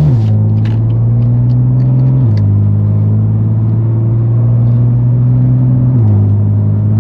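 BMW M3 S55 twin-turbo inline-six running through a straight-piped exhaust with a loud, steady drone at light throttle. Its pitch steps down slightly a couple of times as the revs ease off.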